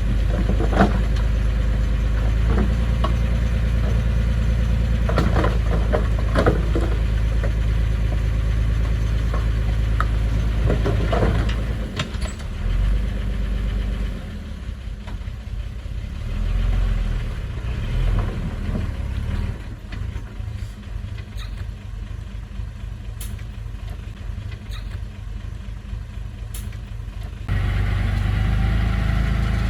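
Diesel engine of heavy earthmoving machinery running steadily, with scattered metal clanks and knocks. About halfway through the sound turns quieter and rougher, and near the end the steady running comes back abruptly.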